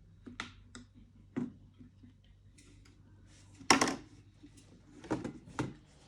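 Small parts of an electric kettle being handled during disassembly: a string of light clicks and knocks, with one louder knock a little past the middle.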